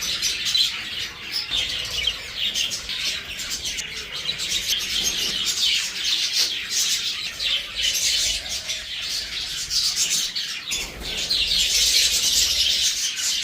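Many small pet birds chirping at once, a dense, continuous chatter of short high chirps.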